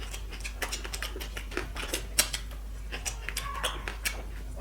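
Close-miked eating: chewing and lip-smacking heard as a run of small, irregular wet clicks.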